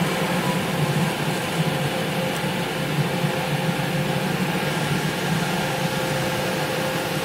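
Steady low hum under a constant hiss inside a car's cabin: the car idling.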